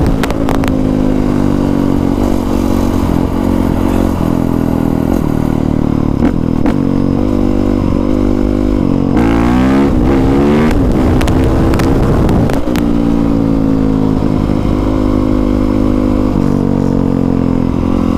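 Dirt bike engine running while riding, the revs shifting up and down, with several quick rises and falls in revs about halfway through.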